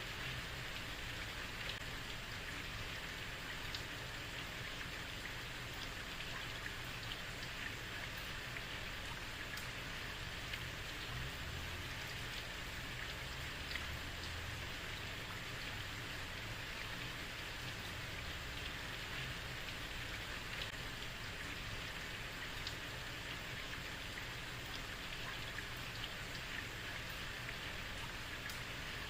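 Heavy rain falling steadily on a street, a dense even patter with scattered sharper drop ticks over a low rumble.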